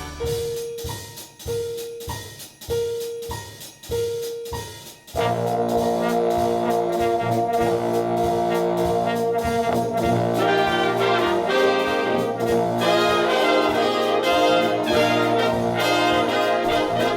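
Brass band music. It opens with four repeated held notes on one pitch, and the full brass ensemble comes in about five seconds in, with many sustained notes.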